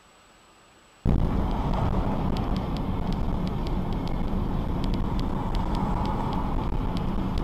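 Car driving noise as picked up by a dashcam: a loud, steady rumble of road and engine noise that starts abruptly about a second in, with scattered sharp ticks over it.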